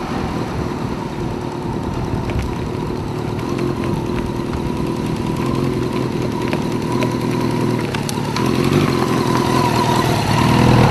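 Motorcycle engine running steadily, getting louder and rising slightly in pitch over the last few seconds.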